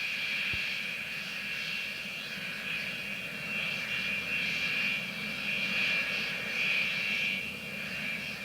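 Aircraft engine running steadily, dominated by a continuous high-pitched whine with a low hum beneath it.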